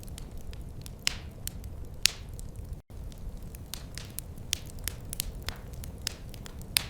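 Wood fire crackling: irregular sharp pops and snaps, some ringing briefly, over a low steady rumble. The sound cuts out for an instant a little under three seconds in.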